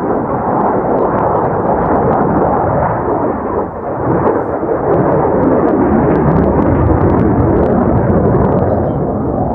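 Jet roar from an F-4 Phantom's twin General Electric J79 turbojets during a flying display, loud and continuous, dipping briefly about four seconds in and then swelling again.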